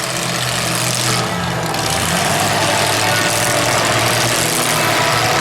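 Mega truck engine running steadily at low revs, with a loud hiss of background noise over it.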